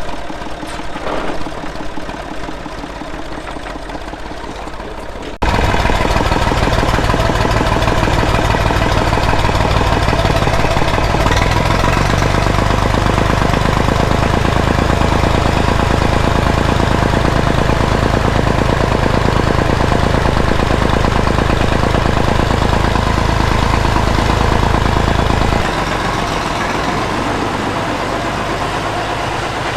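Tractor engine running steadily; the sound jumps abruptly louder about five seconds in and drops back a little near the end.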